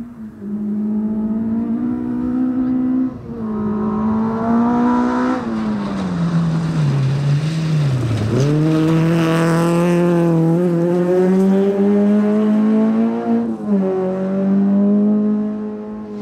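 Rally car engine under hard driving. It pulls up and shifts up about three seconds in, then falls away for several seconds as the car slows. It accelerates hard again just past the middle, with further upshifts near ten and thirteen and a half seconds.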